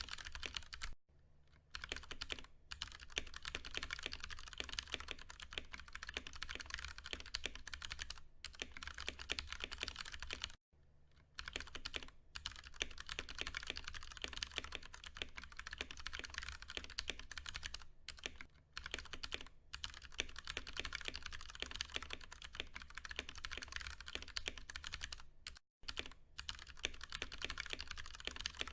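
Fast, continuous typing on a Ducky One 2 Mini mechanical keyboard with Cherry MX Brown switches: a dense run of keystroke clacks, broken by short pauses about a second in, around eleven seconds in, and near the end.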